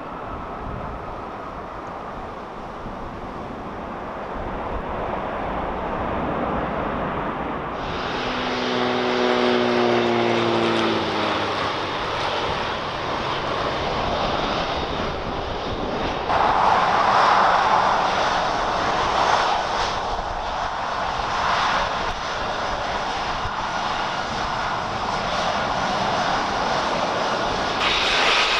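Boeing 737-400 jet airliner's CFM56 engines running loud close by, the roar building over time. About nine seconds in, the engine tones fall in pitch as the jet passes.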